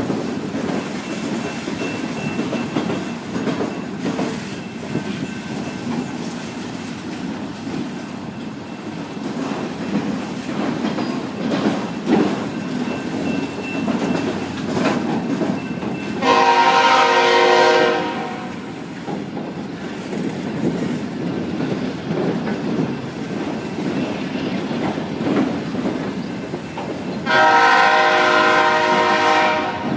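Long CSX autorack train rolling past, its wheels clattering over the rails in a steady rumble. A locomotive air horn sounds two long multi-note blasts, one about halfway through and one near the end, louder than the train.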